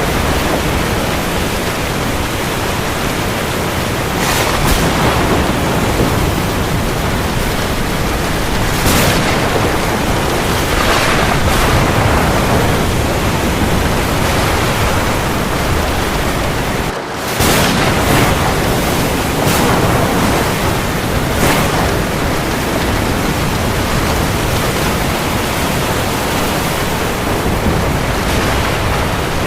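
Heavy rain falling in a steady hiss, swelling and easing every few seconds, with a brief drop in level a little past halfway.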